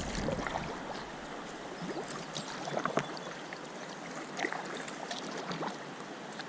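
River water lapping and trickling, with small splashes and drips; one sharper knock or splash about three seconds in. Wind rumble on the microphone dies away in the first second.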